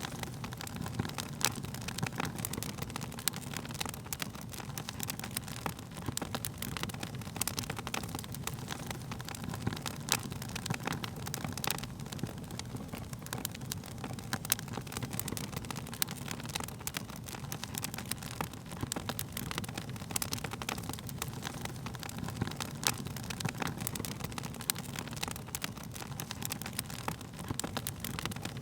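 Wood fire burning: dense, irregular crackles and pops of burning wood, a few sharper than the rest, over a low steady rumble.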